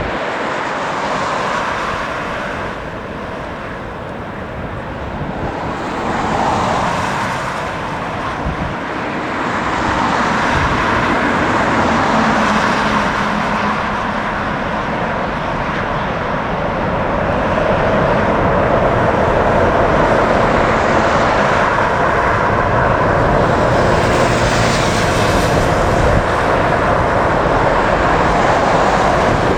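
Jet airliner engines on approach, a steady loud rushing noise that grows louder in the second half.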